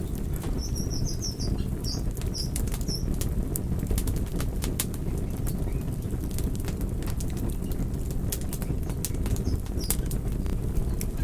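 Campfire burning with a steady low rumble and frequent sharp crackles and pops from the wood. A few short high-pitched chirps come in the first few seconds and again near the end.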